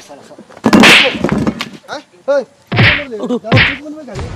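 Three loud slaps or whacks, about a second in and twice near the end, with short vocal cries between them.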